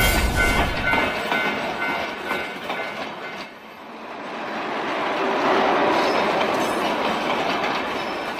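Train sound effect: a passing train's rumble and wheel clatter swells to a peak about six seconds in, then eases off. In the first second, a railroad crossing bell's repeating ding dies out.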